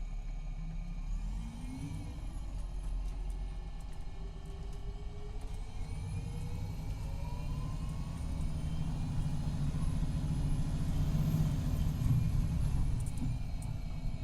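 MCI D4500CT coach's Cummins ISX12 diesel and Allison B500R automatic transmission pulling away and accelerating: a low drone that grows louder, with a whine rising steadily in pitch from about a second in. The transmission is failing, in its last stages.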